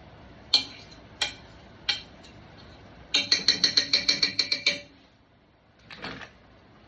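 Kitchen utensil knocks: three sharp clicks about a second apart, then a quick run of about fifteen ringing taps lasting under two seconds, and a softer knock near the end.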